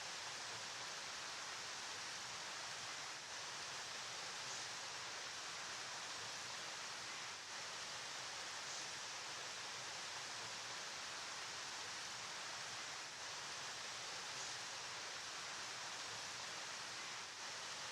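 River water flowing: a steady, unbroken rushing hiss that stays even throughout.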